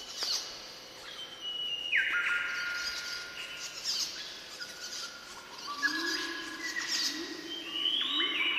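Birdsong: long whistled notes held steady and stepping down in pitch, cut through by short sharp chirps about every three seconds. From about six seconds in, a lower rising note repeats underneath.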